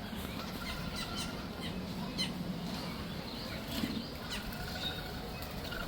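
Several birds chirping and calling with many short, sharp chirps and a few brief whistled notes, over a steady low hum.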